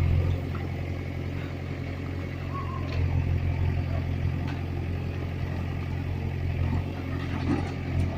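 Heavy diesel engine running steadily with a low drone, slightly louder about three seconds in.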